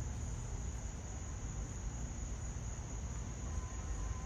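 Insects, crickets by the tags, trilling in one steady high continuous tone over a constant low rumble.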